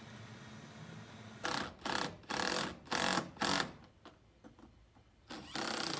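Power impact gun run in short bursts: about five quick bursts in a row, a pause of a second or so, then more bursts near the end, over a faint steady hum.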